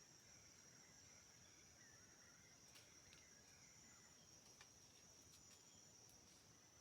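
Faint insects making a steady, high-pitched drone, with a few faint ticks and short chirps over it.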